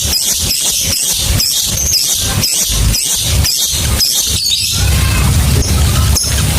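Lovebird calling in a rapid run of short, shrill, gliding chirps and squawks: the 'ngekek' chattering song that lovebird keepers use as a trigger recording. A steady low hum underneath cuts out about half a second before the calls begin and comes back near the end.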